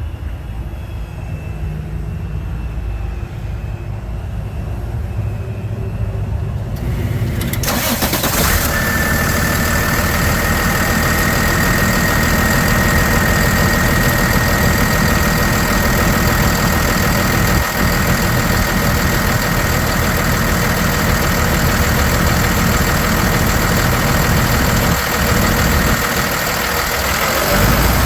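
Cummins 6.7-litre inline-six turbodiesel in a Ford F-750 running, low and steady at first, then much louder from about eight seconds in, with a steady high whine over the engine sound.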